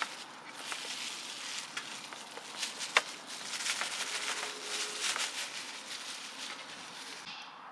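Food sizzling and crackling in a pan over a camp fire, with one sharp clink about three seconds in.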